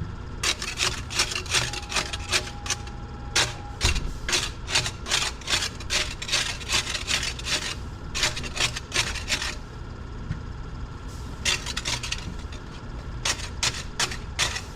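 Barnacles being scraped off a rig's leg into the water: quick, rasping scrape strokes, about two to three a second, with a brief pause a little past the middle before they start again.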